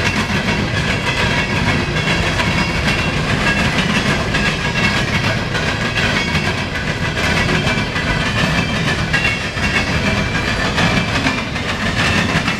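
Loaded coal train's cars rolling past at close range: a steady rumble of steel wheels on rail with a running clickety-clack over the joints.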